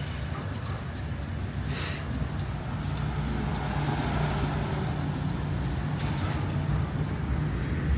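A steady low mechanical rumble, like a running engine, with a brief hiss about two seconds in; it grows a little louder from about three seconds in.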